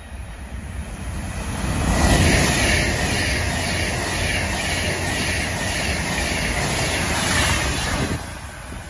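Avanti West Coast Class 390 Pendolino electric train passing at speed: a rushing, rumbling wheel-on-rail and air noise that builds over the first two seconds, holds loud for about six seconds, then falls away suddenly near the end as the train clears.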